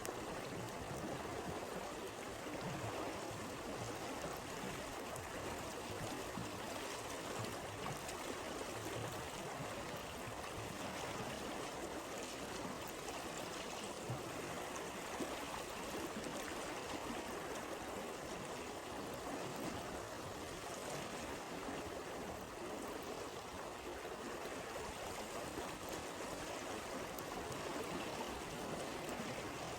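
Flowing stream: a steady, unbroken rush and babble of water.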